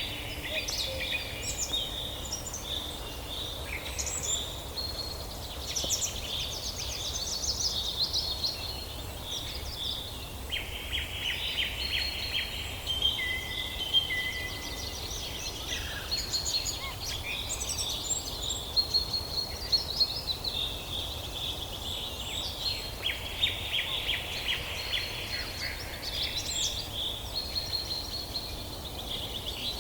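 Several songbirds singing and calling over one another in quick chirps and rapid trills, with no pause, over a low steady rumble.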